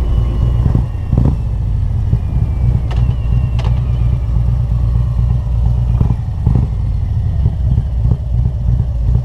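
Harley-Davidson Road Glide's Milwaukee-Eight V-twin with Rinehart headers and 4-inch slip-on mufflers running steadily under way, a few short clicks about three seconds in.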